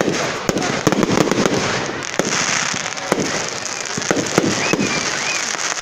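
Fireworks going off: a rapid, irregular run of bangs and crackles over a steady hiss.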